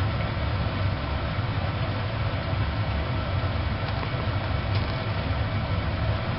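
Wood stove fire burning with a steady low rumble and a couple of faint crackles.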